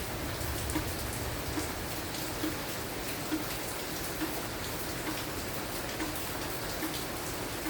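Steady, light-to-moderate rain falling continuously, its drops pattering on surfaces, with a soft regular tick a little under once a second.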